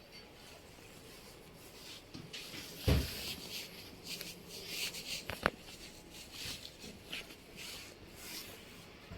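Handling noises: rustling and scraping with scattered small clicks, a dull knock about three seconds in and a sharp click a little after five seconds.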